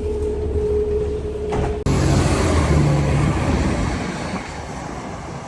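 City bus engine and road noise as heard from inside the bus: a steady hum with a held whine, then, after an abrupt cut about two seconds in, louder and rougher running that eases off near the end.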